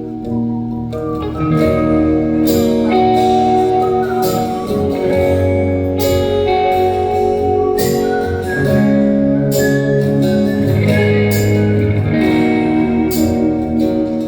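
A band playing an instrumental break of a rock song live: electric guitar leading over bass and drums, with no vocals.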